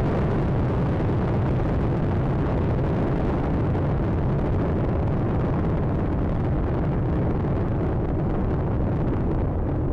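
Space Shuttle Atlantis's solid rocket boosters and three main engines during ascent, a loud, steady, deep rumble with crackle in the first minute of flight.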